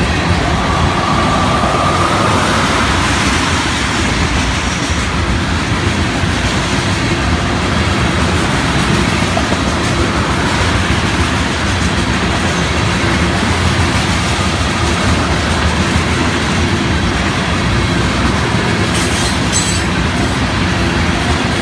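Freight train cars rolling past, a steady loud rumble with the wheels clacking over the rails and a brief faint wheel squeal near the start.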